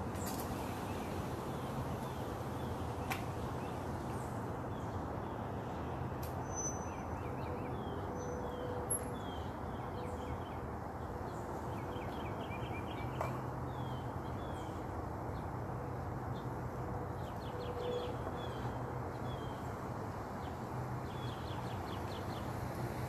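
Small birds chirping in short, quick repeated notes over a steady background noise.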